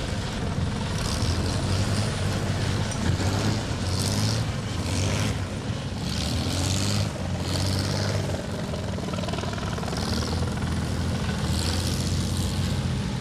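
Light aircraft engine droning steadily as it flies at an airshow, with patches of high hiss that come and go.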